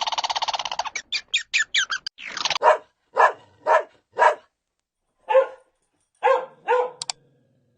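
A rapid trilling animal call that ends about a second in, then a few short chirps, followed by a dog barking: about seven short single barks, some half a second apart, with pauses between groups.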